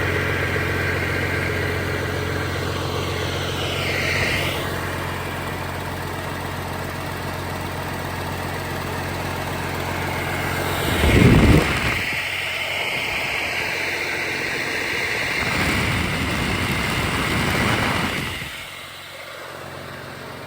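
Mack AMI-335 11.9-litre inline-six diesel engine idling steadily. About eleven seconds in there is a short loud low surge, after which the deep idle note drops away, leaving a higher, noisier running sound that fades near the end.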